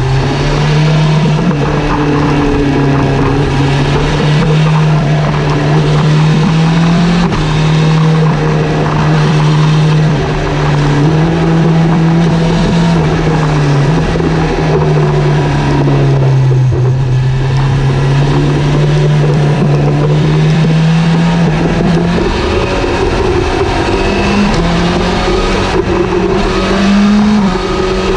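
Motorcycle engine running under way. Its note climbs slowly and drops back in steps several times, as the throttle and gears change, over a steady rush of noise.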